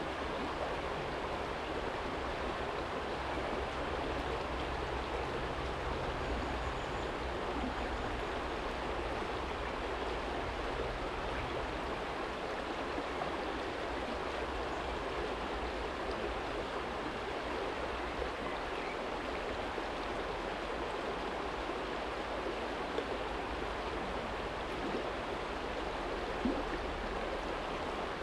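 Small shallow stream flowing over a stony bed, a steady rushing and babbling of water, with a faint low rumble underneath.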